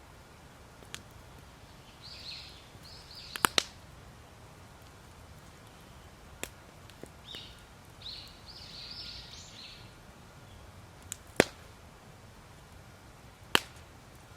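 Campfire wood popping: a handful of sharp, isolated cracks, the loudest a pair about three and a half seconds in and single ones near the end. Birds chirp in short high runs between them.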